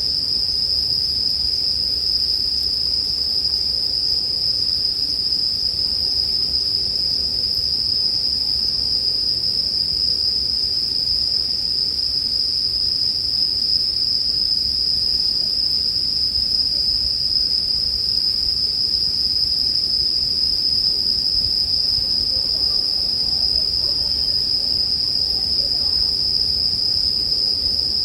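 Japanese bell crickets (suzumushi) singing steadily, a continuous high-pitched ringing.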